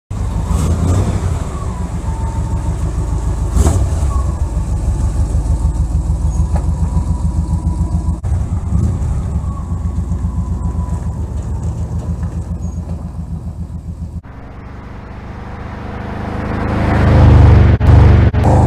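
1968 Chevrolet C20 pickup's engine running with an even pulsing beat, dropping off suddenly about fourteen seconds in, then revving up to its loudest near the end.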